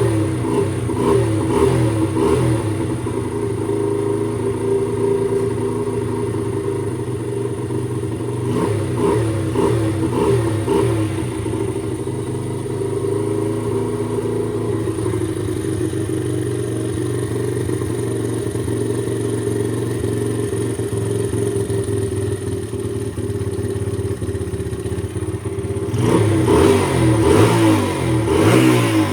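Chinese pit bike's single-cylinder four-stroke engine running, its throttle blipped into short revs at the start, again about a third of the way in and near the end. The blips test whether a new, binding throttle cable snaps back on an engine that does not idle well.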